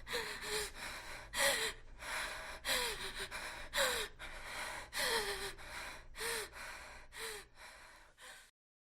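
A woman breathing deeply and heavily, audible breaths in and out about once a second, many with a short falling sigh in the voice. The breathing cuts off suddenly near the end.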